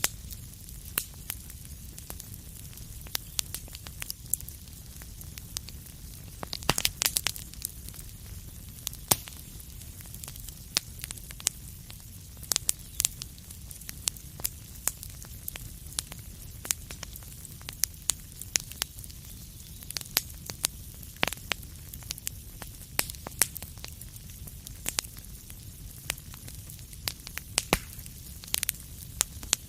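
Wood fire crackling, with irregular sharp pops and snaps over a low steady rumble and hiss, and a quick cluster of louder pops about seven seconds in.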